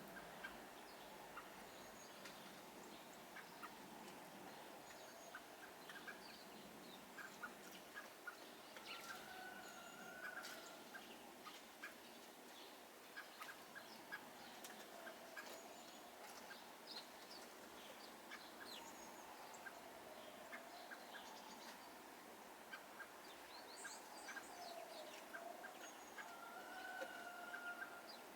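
Faint small songbirds chirping: scattered short calls and twitters, with a couple of brief whistled notes.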